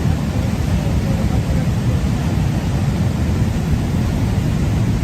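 Floodwater rushing over a road: a steady, loud, low rumbling rush of water without a break.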